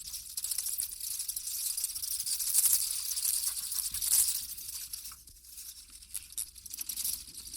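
Dry crackling rustle of grass and leaves as kittens move and play in it: a dense, hissy run of fine crackles, loudest in the middle and fading toward the end.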